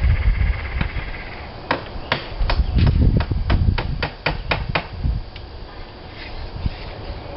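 A hammer tapping on a slate repair: a quick run of about a dozen sharp strikes that come closer together, from about two seconds in to about five, over a low rumble.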